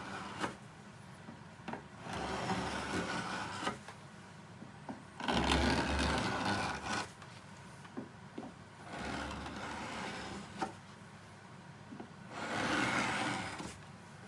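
Wooden garden bench being sanded by hand: about five long abrasive strokes, each a second or two, a few seconds apart, with small knocks between them.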